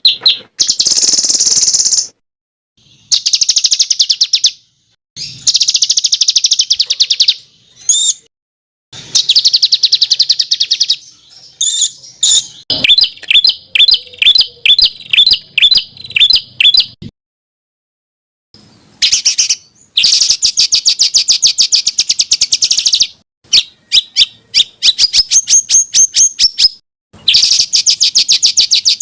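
A songbird singing a varied song in bursts of very rapid, high chattering trills, broken by short silent gaps. Midway through comes a run of repeated slurred whistled notes.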